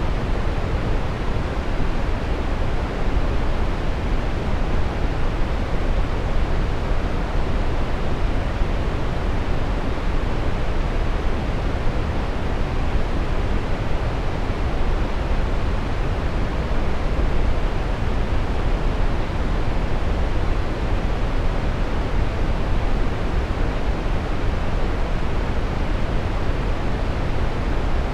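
Steady brown noise: an even, deep rushing hiss, strongest in the low end and falling away in the highs, without change.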